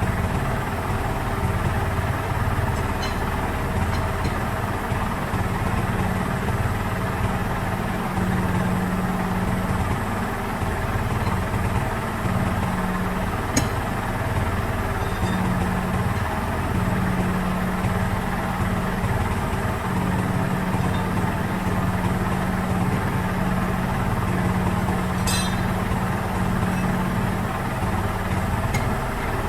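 An engine idling steadily, with a few light metallic clinks of tools now and then.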